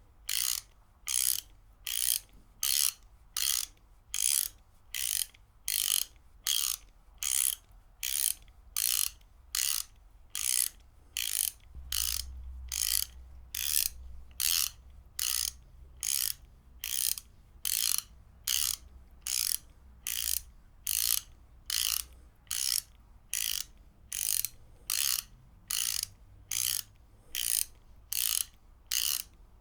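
Ratchet wrench ratcheting in short, evenly spaced bursts of clicking, about three every two seconds.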